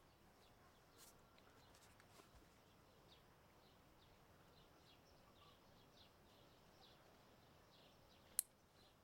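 Near silence with the faint, repeated high chirps of small birds, and a single sharp click near the end.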